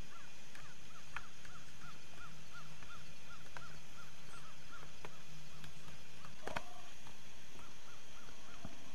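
A bird calling a steady series of short, arched notes, about three a second. The calls pause after about five seconds and start again near the end. A few sharp clicks cut in, the loudest about six and a half seconds in.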